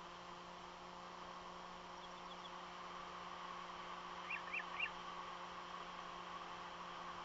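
A bird at the nest, not an eagle, gives three short, high, rising chirps about four and a half seconds in, after a few fainter quick ticks about two seconds in. Steady hiss and hum from the nest camera's audio run under them.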